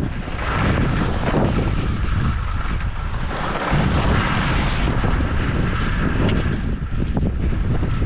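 Wind buffeting the camera microphone in loud, uneven gusts, with a heavy low rumble.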